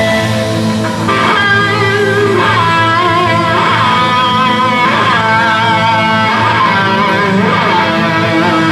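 Live rock band playing, an electric guitar carrying the melody in sustained notes that bend and waver in pitch over a steady low accompaniment.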